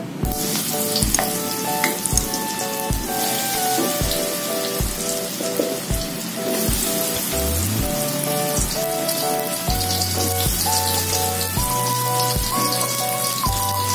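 Cornstarch-coated eggplant pieces deep-frying in hot oil in a wok, a steady sizzle and crackle of bubbling oil. Background music with a steady beat plays along.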